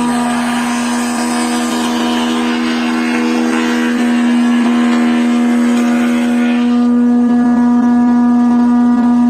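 A woodworking power tool's electric motor running with a steady hum, with a hissing cut as wood goes through it until about two-thirds of the way in, after which the motor hums on alone.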